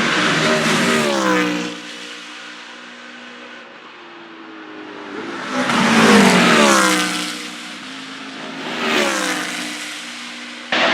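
BMW Z4 GT3 race cars with V8 engines passing at full speed, three times. Each engine note drops in pitch as the car goes by, and a quieter engine note carries on between the passes.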